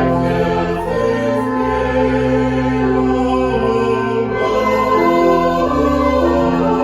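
Slow choral music: voices singing long held chords that change about every second.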